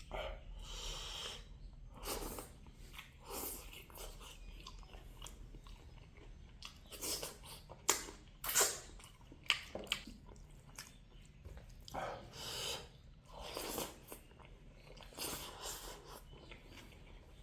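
A person chewing a mouthful of pork and mustard greens close to the microphone, with wet, crunchy bites coming irregularly, about one a second, and a few sharper clicks.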